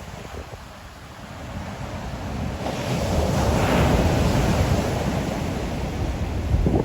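Ocean waves: a wave builds and breaks about halfway in, and its wash holds on to near the end, with wind buffeting the microphone.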